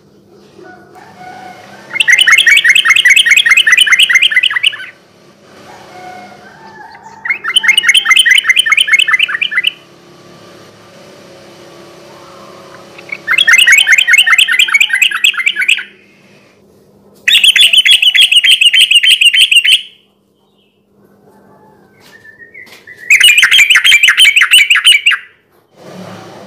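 Yellow-vented bulbul (trucukan) singing: five loud bursts of rapid, repeated notes, each two to three seconds long, with short pauses between them.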